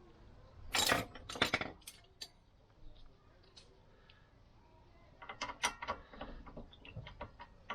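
Metal tools clattering, then a socket ratchet clicking in quick runs as it is set up to undo the brake caliper carrier bolts.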